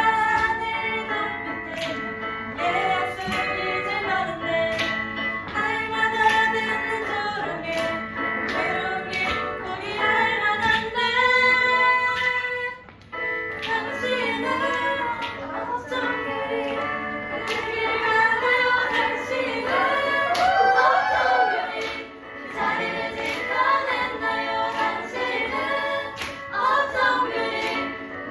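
A group of young voices singing a Korean worship song together, with a regular beat under it; the music drops out briefly about halfway through.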